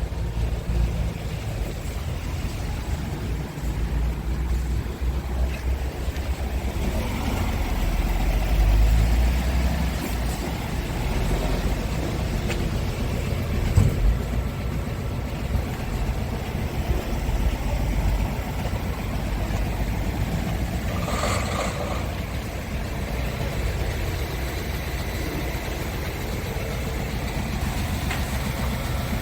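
Scania R500 tractor unit's V8 diesel engine running at idle. It swells louder for a few seconds around eight seconds in, with a short hiss about 21 seconds in.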